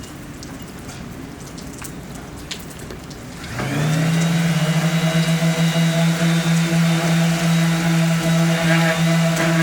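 An electric power tool's motor switches on about a third of the way in, spins up quickly and then runs steadily at full speed with a loud, even hum.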